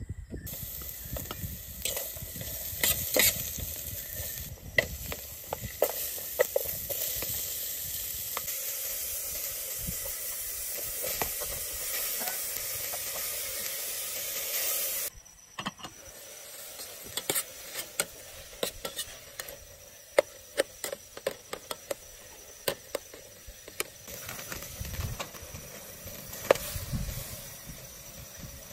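Food frying: a steady sizzling hiss with scattered sharp pops and clicks. About halfway through it drops suddenly to a quieter stretch with occasional pops.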